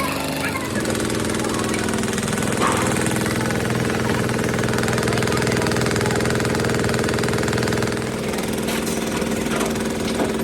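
Vehicle engine running steadily, its pitch rising slightly about a second in and easing back down near the end.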